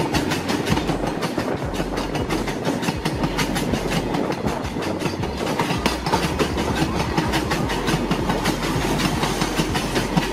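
Freight train of oil tank cars rolling past, its wheels clacking over the rail joints in a rapid, continuous rhythm over a steady rumble.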